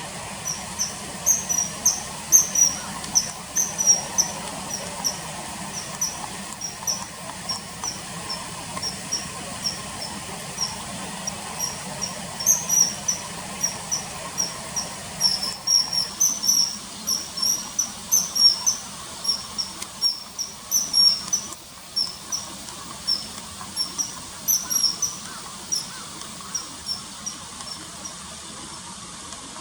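Common kingfisher calling: a long run of short, sharp, high-pitched whistled notes, irregularly spaced at a few per second, over a faint steady background rush.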